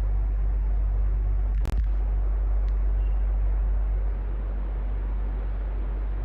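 Electric fan running steadily: a low hum under an even rush of air. There is a brief click about two seconds in, and the sound gets slightly quieter about four seconds in.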